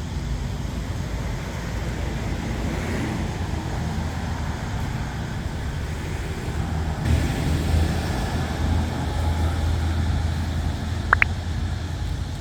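Steady vehicle and road noise with a low rumble that grows louder about halfway through. A single short, high, rising chirp sounds near the end.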